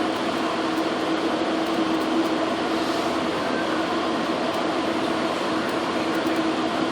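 Steady running noise inside a moving passenger train car, with a constant low hum throughout.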